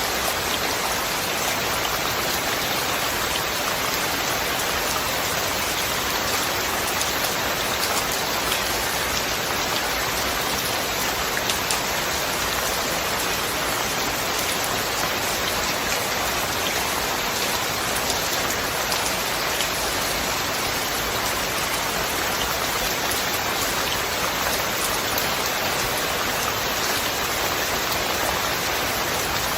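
Steady rain falling, an even hiss with the small ticks of individual drops landing throughout.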